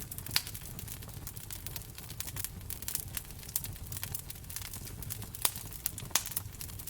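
Fireplace fire crackling: dense, irregular snaps and pops over a low steady rumble, with a few sharper, louder pops.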